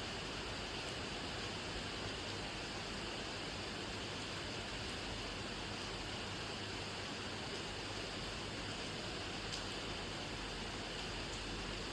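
Steady rain, an even hiss of falling drops with no let-up, with a few faint separate drop ticks near the end.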